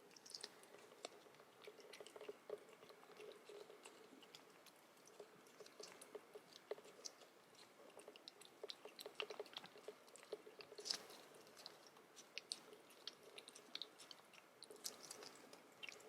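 Quiet, irregular small clicks and wet smacks from a kitten's mouth, like chewing, coming in uneven clusters with a few louder clicks near the middle and toward the end.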